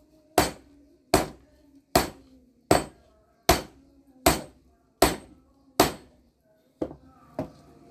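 Hammer blows on hot bearing steel being forged into a blade: eight hard, evenly paced metallic strikes about one every 0.8 seconds, each ringing briefly, then two lighter taps near the end.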